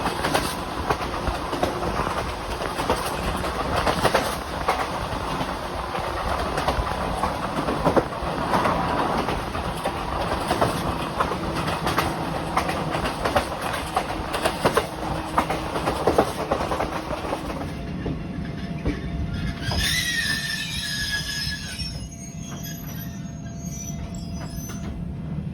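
Toyama Chiho Railway electric train running along the track, with a steady rumble and rail clicks. About 18 s in the running noise drops as the train slows, a brief wheel or brake squeal follows, and then it goes quieter with a faint steady hum.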